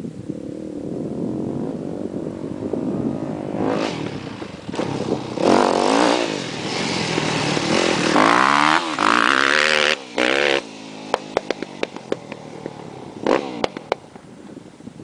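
Yamaha YZ250F dirt bike's single-cylinder four-stroke engine revving hard, its pitch rising and falling with the throttle. It is loudest in the middle, then cuts off suddenly, followed by scattered clicks and clatter.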